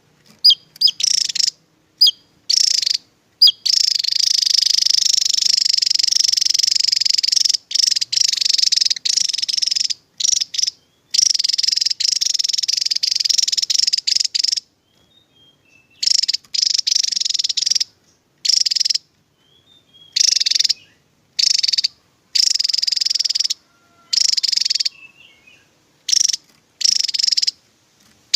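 Javan tesia singing its rapid, high-pitched trilling 'tembakan' song: a few short sharp notes, then one long run of about ten seconds, then repeated bursts of a second or two with short silences between.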